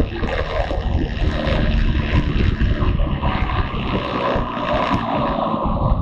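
Motorcycle riding along with its engine running under heavy wind buffeting on the microphone.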